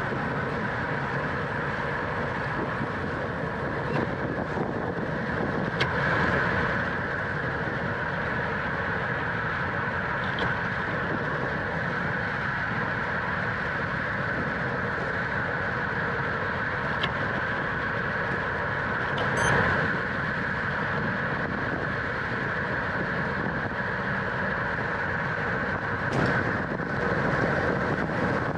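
Steady rush of tyre and wind noise from a road racing bicycle riding at speed, with a few short clicks along the way.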